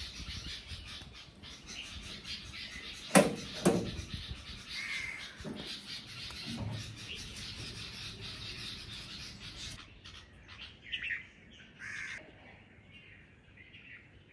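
Birds calling now and then over a light crackling patter, with two sharp knocks about three seconds in.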